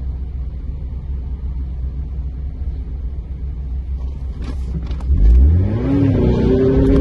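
Car engine idling with a steady low rumble, heard from inside the cabin; about five seconds in the revs rise sharply and the engine pulls hard as the car launches from a standstill.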